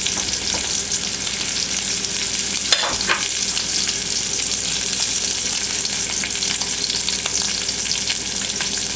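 Seasoned lingcod cheeks sizzling and crackling in hot bacon fat in a frying pan, a steady fry with a couple of sharper pops about three seconds in.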